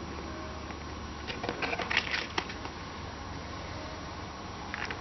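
Clicks and light rattles of small parts and packaging being handled, as new carburetor gaskets are worked free of their packing. There is a burst of them about a second in, a few more near the end, and a steady low hum underneath.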